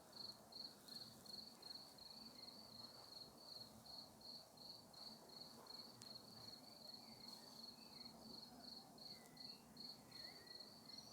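A cricket chirping faintly and steadily, about three high-pitched chirps a second.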